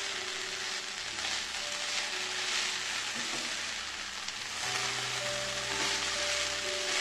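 Shredded potatoes and carrot strips sizzling in hot oil in a frying pan, stirred and turned with a wooden spatula; the hiss swells and eases as the strips are moved.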